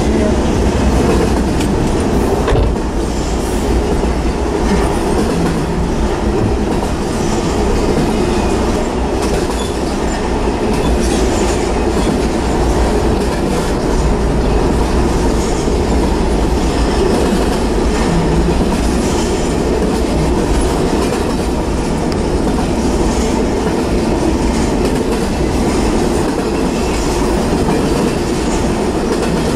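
Double-stack intermodal freight train rolling past: a steady rumble of steel wheels on rail, with scattered clicks as wheels cross rail joints.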